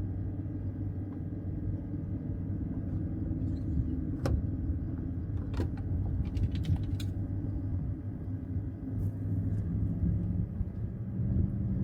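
Steady low motor drone, with a few sharp clicks and taps between about four and seven seconds in.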